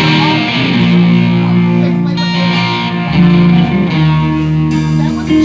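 Live band music with guitar, held notes changing about once a second.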